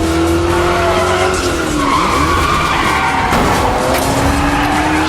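Film car-chase sound: a car engine revving hard with tyres squealing and skidding, its pitch swooping down and back up twice.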